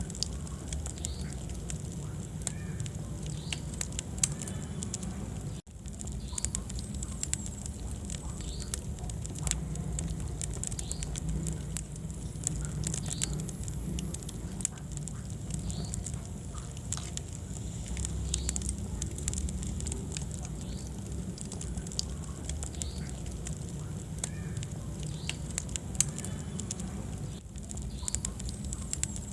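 Wood fire in a fireplace crackling, with frequent sharp pops over a low, steady rumble of the flames.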